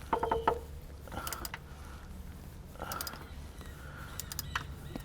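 A quick run of metallic clinks with a brief ringing tone in the first half-second as a metal fitting is knocked into place, followed by scattered light taps and clicks of parts and tools.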